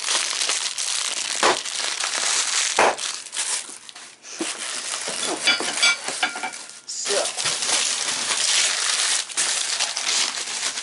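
Packing material, bubble wrap and foam packing peanuts, rustling and crinkling as hands dig through a shipping box, with two short lulls.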